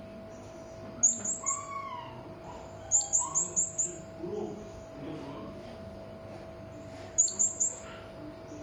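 Hanging parrot (serindit) calling in three short bursts of rapid, very high, shrill chirps, three to five notes each, over a steady low hum.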